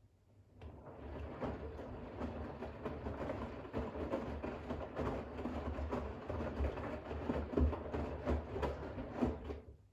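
Bosch WAX32GH1 front-loading washing machine drum tumbling wet towels in rinse water, with sloshing and irregular splashes over a low motor hum. The turn starts about half a second in and stops just before the end.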